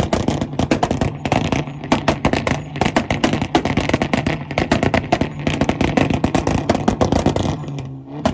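A tuned car engine held on a two-step launch-control rev limiter, its exhaust popping and crackling rapidly over a steady held engine note. It is loud throughout and lets up briefly near the end.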